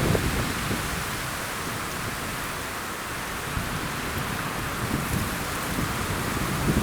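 Strong wind rushing through the pine forest, with low rumbling gusts buffeting the microphone that ease in the middle and build again near the end.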